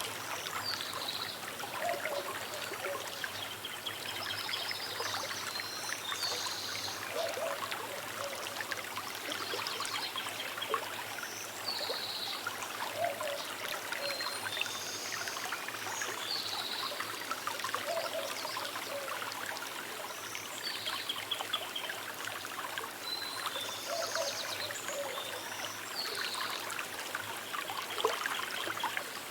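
A small river trickling steadily over its bed, with short bird chirps coming every few seconds above the water.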